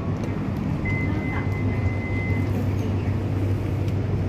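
Steady low electrical hum inside a stopped Melbourne suburban electric train carriage, with one steady high-pitched electronic beep lasting about a second and a half, about a second in.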